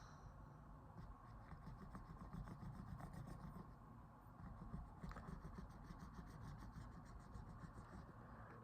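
Near silence with faint rubbing and a few small ticks, from hands handling phone parts during a repair.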